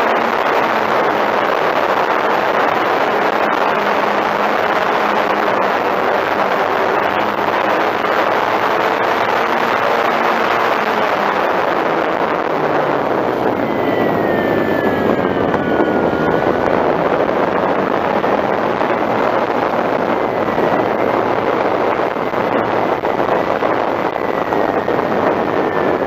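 Steady rush of wind over an onboard microphone on a SebArt Katana 30E electric RC plane in flight, with the whine of its electric motor and propeller underneath. About halfway through, the whine dips in pitch and then climbs again.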